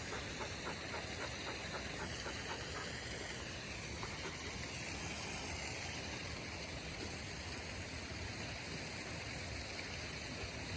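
Steady rushing of running water from a partly frozen waterfall and brook.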